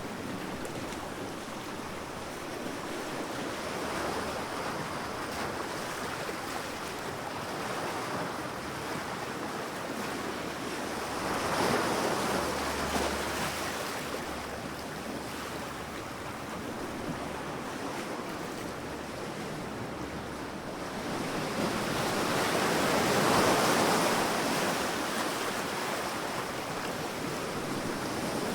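Sea waves washing onto a beach: a steady rush of surf that swells twice, about twelve seconds in and again around twenty-three seconds, then draws back.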